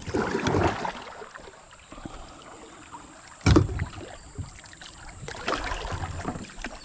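Water splashing and rushing around a small boat in fast current, with one sharp knock, the loudest sound, about halfway through.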